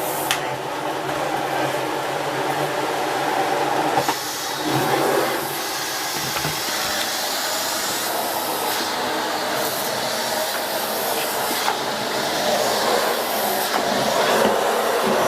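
Miele S8 canister vacuum cleaner running steadily as its floor head is worked over the floor, the noise shifting a little as the head moves.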